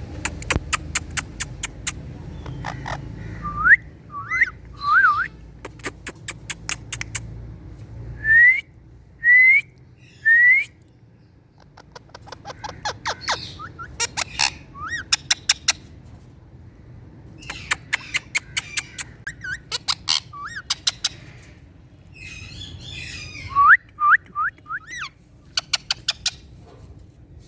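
Indian ringneck parrot calling with short rising whistles and harsher chattering bits, between rapid runs of sharp clicks.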